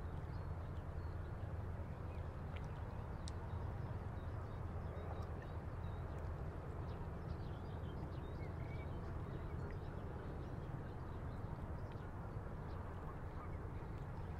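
River water lapping and splashing against a stone breakwater over a steady low rumble of breeze, with scattered faint short bird calls, likely water-birds such as ducks.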